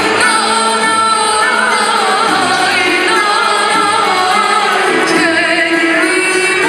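A woman singing a Turkish folk song (türkü) in an ornamented, wavering melody, accompanied by a traditional Turkish ensemble of violins, ouds, kanuns, clarinet and percussion.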